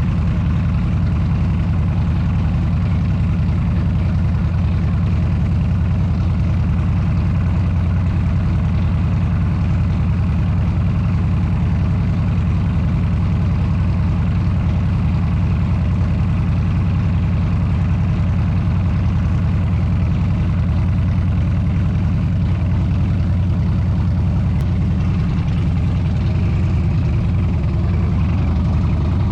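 Motorcycle engine running steadily at cruise, a constant low drone with wind and road noise over it.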